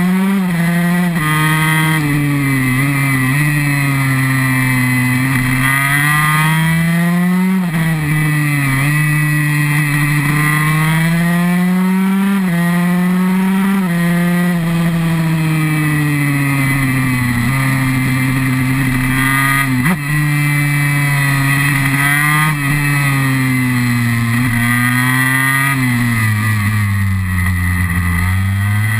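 KTM SX 144 two-stroke single-cylinder engine under way, heard close from the bike itself: the revs climb and fall again and again as it is ridden through gears and corners, dropping lower near the end.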